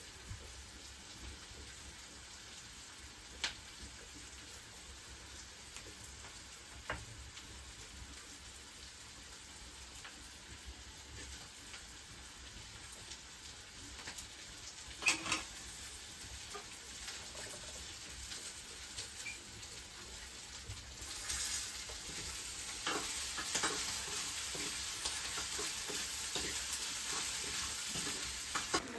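Curry frying in a pot, sizzling steadily, with a few sharp knocks of a spoon stirring it. About two-thirds of the way through the sizzle gets louder and the stirring knocks come more often.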